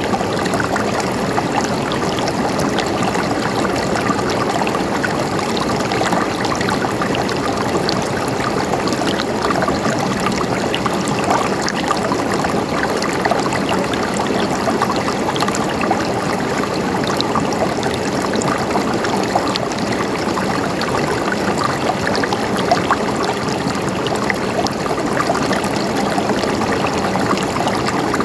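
Water flowing and gurgling steadily, as in a stream running over rocks, with small splashes all through.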